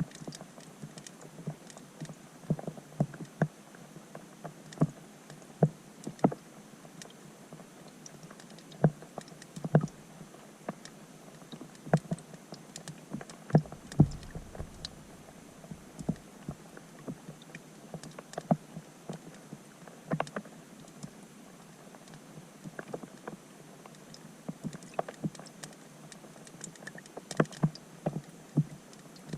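Rain falling on a pond, heard underwater through a GoPro's waterproof housing: a faint steady hiss with uneven sharp ticks and pops, a few a second, as drops strike the surface.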